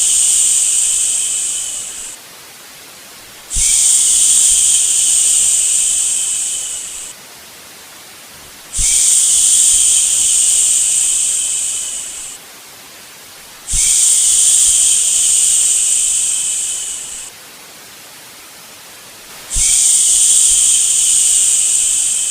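Repeated long shushing "shhh" sounds for soothing a baby to sleep, each lasting about three and a half seconds and tailing off at its end, coming back about every five seconds. A faint steady hiss fills the gaps between them.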